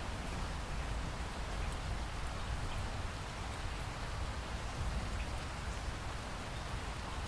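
Steady rain falling, with faint scattered drop ticks and a low rumble underneath.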